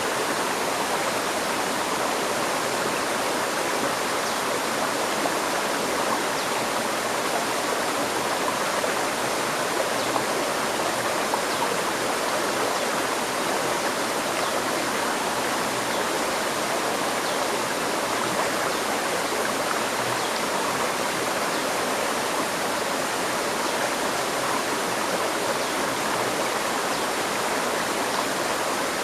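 River stream: water flowing and babbling over rocks as a steady rushing sound that holds even throughout.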